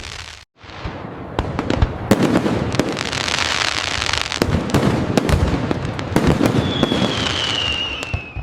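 Fireworks display: a dense run of sharp bangs and crackling reports, with a hissing, crackling spell about three seconds in. A whistling firework's falling whistle sounds near the end.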